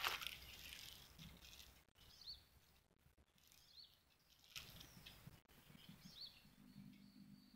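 Faint bird calls: a short rising chirp repeated about every second and a half over otherwise near silence.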